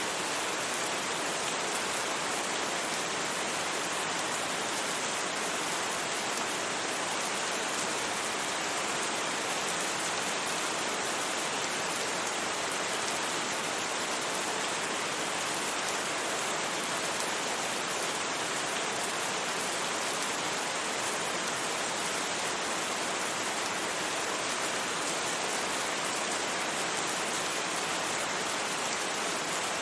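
Steady, even rain with no thunder, a constant hiss of rainfall without breaks or single distinct drops.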